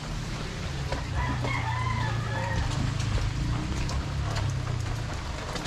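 A rooster crowing once, a pitched call of about a second and a half starting just over a second in, over a steady low engine rumble of street traffic.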